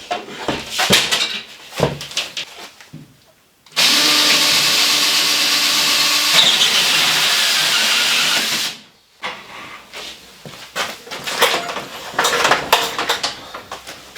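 A handheld power tool's motor running steadily for about five seconds and then stopping, with knocking and clattering of handling and building work before and after.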